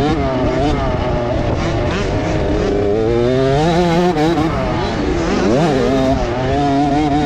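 Several motocross bike engines running hard on the track, their pitch rising and falling as the riders work the throttle. About five and a half seconds in, two engine notes cross, one rising and one falling.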